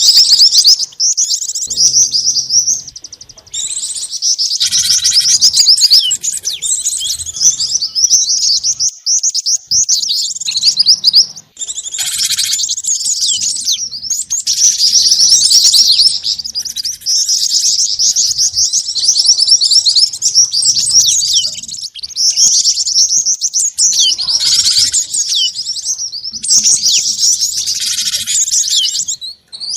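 Bird-lure recording of small songbirds, gelatik batu, jingjing batu and mantenan calls mixed together: loud, high-pitched chirps and trills in rapid runs of repeated notes, broken by brief pauses.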